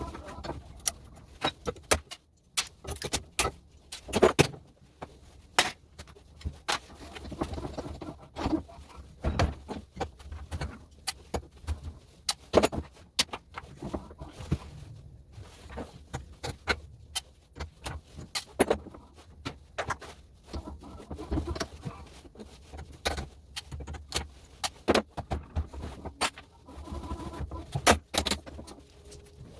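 Irregular sharp clicks and metallic clinks of small metal parts being handled and cut, as household plugs are taken apart for their brass pins and copper wire.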